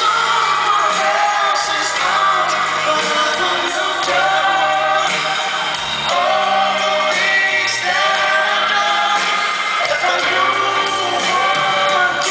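Live band music with a male lead singer and backing vocal harmonies, sung throughout.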